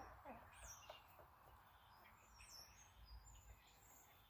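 Near silence with a few faint bird chirps, short and high, about a second in and again midway.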